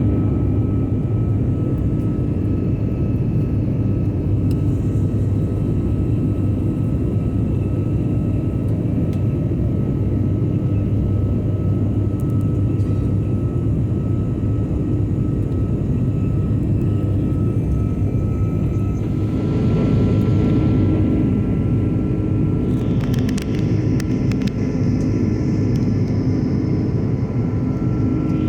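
Airbus A330 jet airliner heard from inside the passenger cabin: a steady, dense low rumble of engines and airflow with a thin, steady whine above it. About two-thirds of the way in, a brighter hiss joins the rumble.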